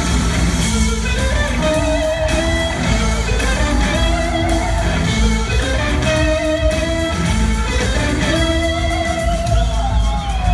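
Live rock band jamming, led by electric guitar playing held notes in a phrase that repeats about every two seconds over bass and drums.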